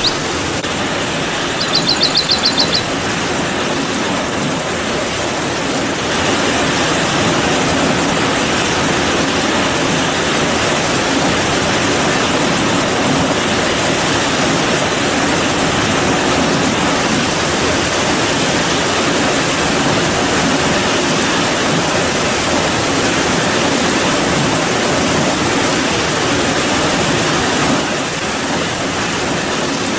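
Steady rain falling, a dense even hiss that grows slightly louder about six seconds in and eases near the end. A short, rapid, high bird trill sounds about two seconds in.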